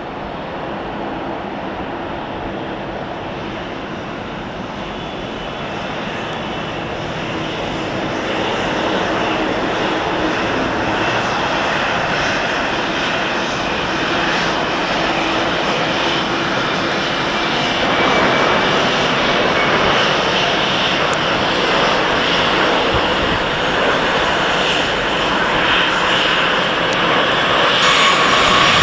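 Airliner engines running, growing steadily louder as the aircraft draws closer.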